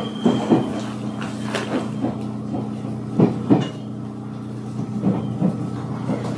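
Ueda Electric Railway Bessho Line electric train running, heard from inside the car: a steady running hum with four pairs of knocks as the wheels cross rail joints. A high wheel squeal dies away within the first second.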